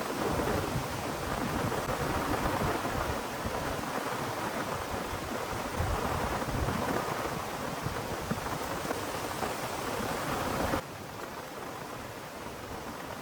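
Heavy rain pouring steadily, with a deep rumble underneath. About eleven seconds in it drops suddenly to a lighter, quieter rain.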